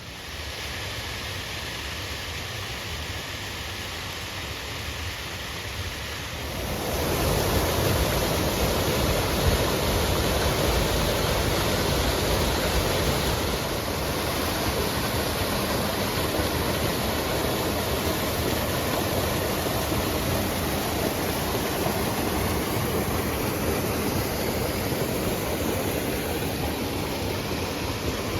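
Steady rush of falling water from a creek waterfall, becoming louder and fuller about seven seconds in.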